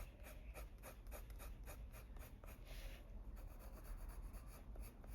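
Faint scratching of a coloured pencil's lead on paper: short, quick strokes at about three or four a second as a petal is shaded in.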